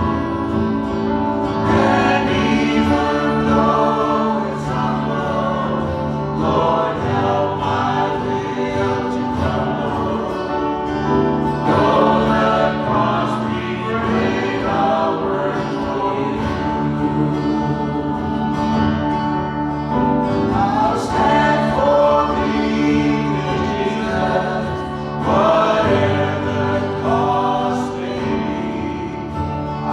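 Gospel-style worship song: a group of voices singing together over steady held chords from the backing instruments.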